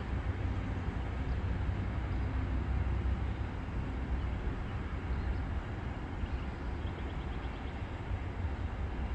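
Low, steady rumble of a ballast train moving away down the line, easing off slightly as it recedes.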